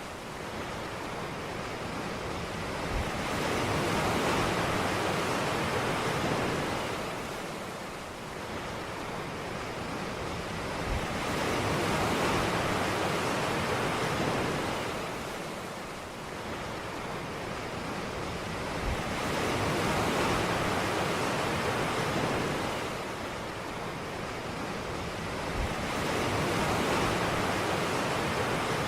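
Ocean surf breaking on a beach: a steady wash of waves that swells and fades about every eight seconds, four times over.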